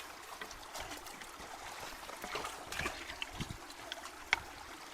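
Creek water running and trickling into a partly cleared culvert, a steady wash of flowing water with a few scattered knocks and splashes from debris being worked loose.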